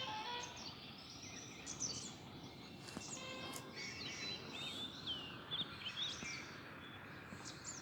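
Several small birds chirping, with many short, quick rising and falling notes over a steady background hiss of outdoor noise.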